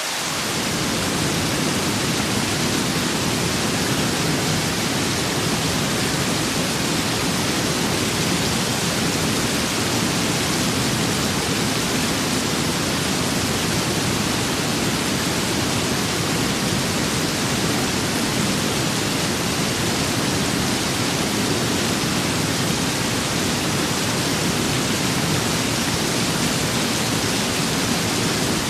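Steady rain with wind: a dense, even hiss with no separate drops or gusts standing out. A deeper rumble swells in right at the start, then holds steady.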